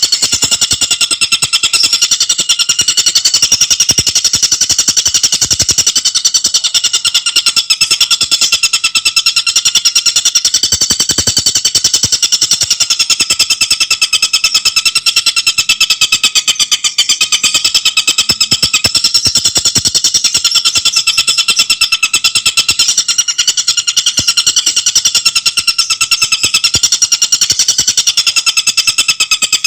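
Tengkek buto bird calling in a fast, tightly packed chatter, high-pitched and unbroken, with no pause.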